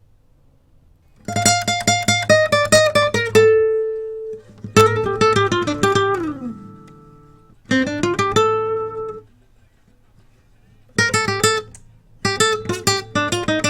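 A recorded guitar part playing back: quick runs of plucked notes in four phrases with short pauses between them, starting about a second in.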